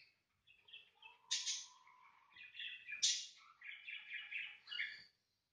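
Small birds chirping and twittering faintly in a quick, busy run of calls that stops about five seconds in.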